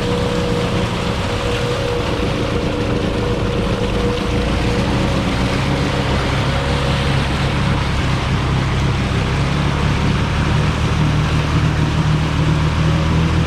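ATV engine running steadily, a deeper engine note growing stronger from about four seconds in.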